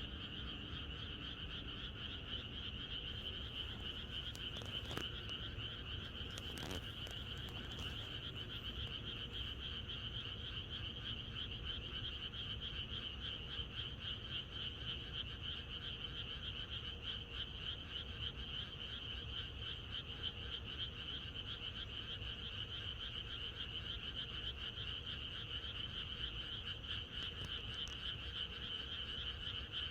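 A dense chorus of many frogs calling together, steady and unbroken, their croaks merging into one continuous pulsing din.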